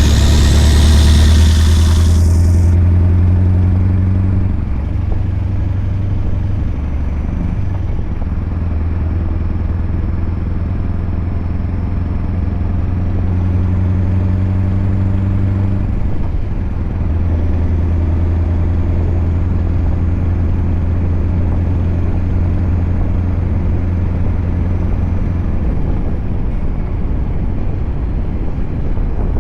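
Scania R580's 16.4-litre V8 diesel running through a straight 8-inch exhaust pipe, a steady low drone. A hiss covers the first two seconds or so, and the engine note briefly drops and picks up again about four seconds in and again near sixteen seconds.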